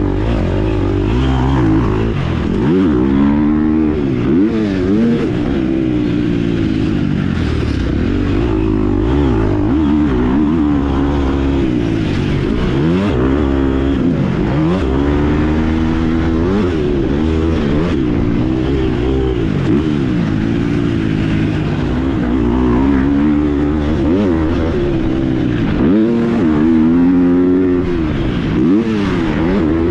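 2019 KTM 250 SX-F four-stroke single-cylinder dirt bike engine being ridden, revving up and dropping back over and over, its pitch climbing and falling every second or two.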